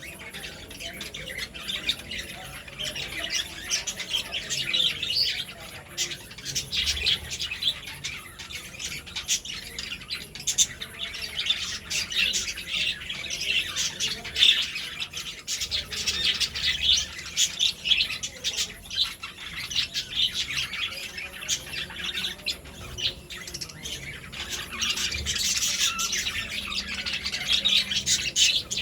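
A group of birds calling continuously, many short high calls overlapping with no pause.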